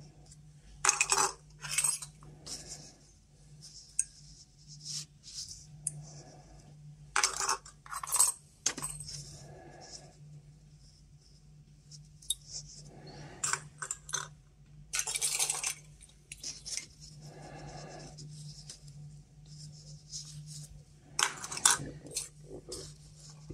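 Geiger counter tubes being handled on a table: irregular clinks, clicks and short scrapes as they are picked up, turned and set down, over a faint steady low hum.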